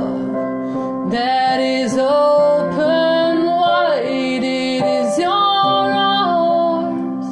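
A woman singing long, held, sliding notes over sustained piano chords, in a slow worship song.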